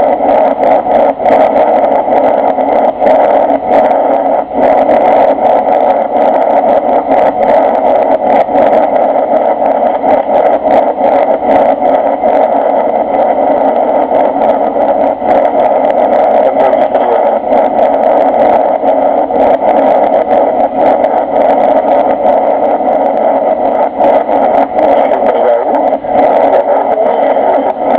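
Steady, loud engine and airflow noise inside the cabin of a Boeing 747-300 airliner, unchanging throughout, with many small crackles over it.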